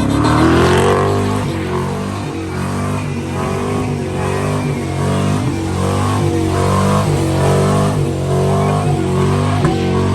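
Truck engine revving: the pitch climbs sharply at the start, then the revs swell and drop again and again about once a second.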